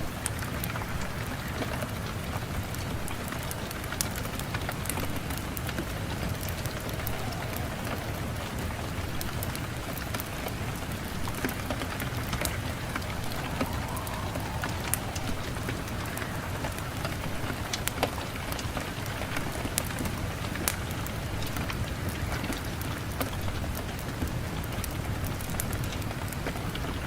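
Steady rain falling, an even hiss with scattered sharp drip ticks throughout.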